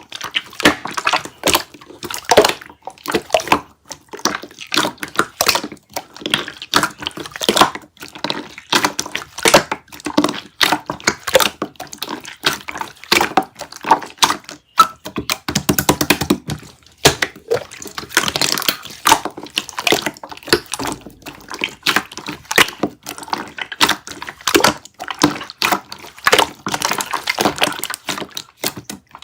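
Hands squeezing and poking a soft pudding-textured slime, making a steady stream of sticky wet clicks, pops and squelches. There is a denser, fuller squish about fifteen to seventeen seconds in.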